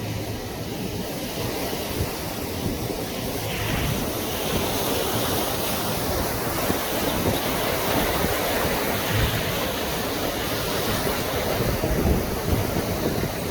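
Wind buffeting the microphone over a steady rushing, surf-like noise, growing a little louder after a few seconds.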